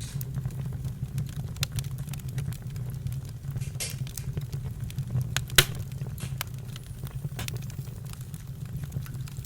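Campfire crackling: scattered sharp pops and snaps over a steady low rumble, with the loudest pop a little past halfway.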